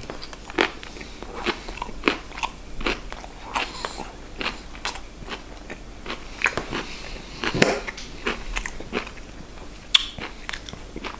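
A person chewing a mouthful of food close to the microphone, a run of small irregular clicks and crunches.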